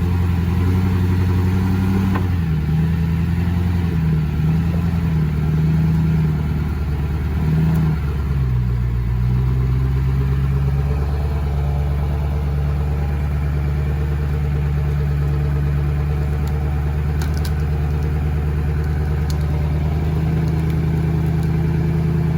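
Lifted pickup's 2003 LB7 Duramax 6.6-litre turbo-diesel V8 running under load as the truck climbs onto a scrap car. The engine note rises and falls for the first eight seconds or so, then holds steady.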